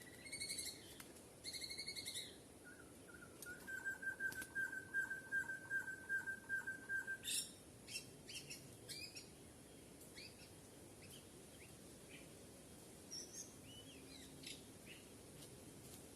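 Birds calling: two short harsh buzzy calls, then a fast even trill lasting about four seconds, then a scatter of short rising chirps and whistles.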